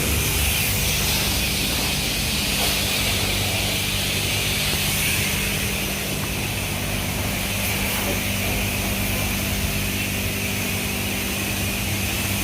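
High-pressure spray wand at a self-service car wash spraying water onto a car, a steady hiss over the low, even hum of the bay's pump.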